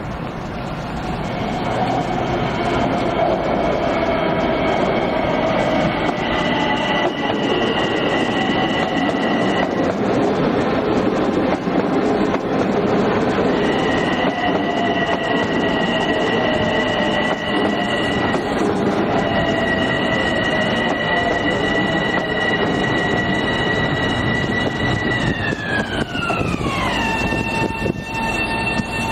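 Electric multiple-unit commuter train arriving at the platform and slowing: rumble of the cars with steady high-pitched tones and a slowly falling motor whine. Near the end the tones sweep sharply down in pitch and level off as the train comes to a stop.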